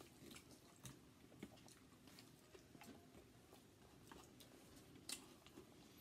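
Faint chewing and mouth sounds of people eating chicken and vegetables, with scattered light clicks at irregular intervals, the sharpest one about five seconds in.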